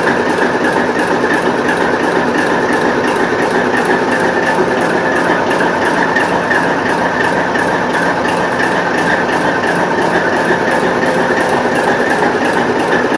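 TEP70 diesel locomotive's turbocharged V16 diesel engine running steadily while warming up after a cold start.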